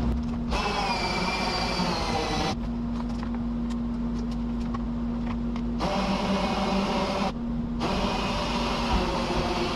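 Cordless drill driving a cable winch, running in three spurts of one to two seconds with short pauses between as the kayak is winched down off the wall rack. A steady low hum runs underneath.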